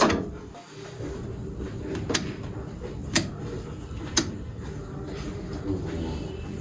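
McCormick International B-375 tractor's diesel engine running steadily, with four sharp metallic clicks over it, the last three about a second apart.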